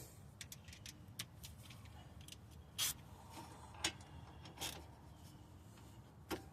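Scattered light metallic clicks and taps of hand tools and parts being handled during front-hub and brake work, a few at a time with short gaps between them.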